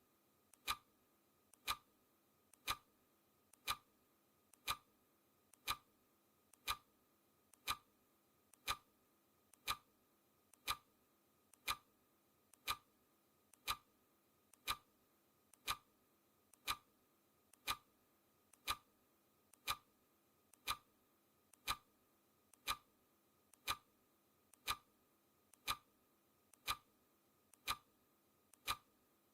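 Clock ticking steadily once a second as the ticking sound of a countdown timer. Each tick is a faint click followed closely by a sharper, louder one.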